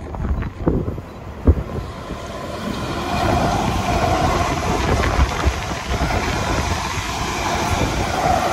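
South Western Railway electric multiple-unit train running past alongside the platform. A few sharp clicks of wheels over rail joints come first; then, about two seconds in, a steady rush of wheels on rail grows louder as the carriages pass, with a steady whine over it.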